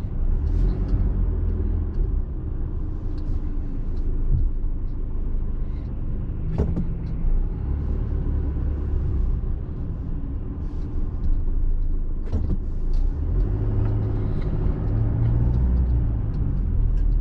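Low steady rumble of a small truck's engine and tyres, heard from inside the cab while driving slowly, with a few short sharp knocks.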